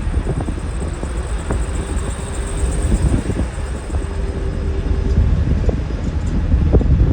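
Jet airliner engines rumbling steadily, with a faint high whine above the deep rumble.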